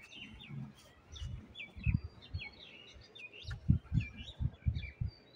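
Small birds chirping, many short high calls in quick succession, with several low muffled thuds mixed in; the thuds are the loudest sounds, one about two seconds in and a cluster in the second half.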